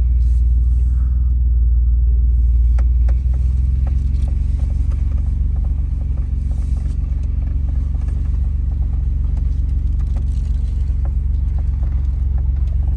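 Low, steady rumble of a car being driven, heard from inside the cabin, with scattered small knocks and rattles. The rumble drops a little about three seconds in.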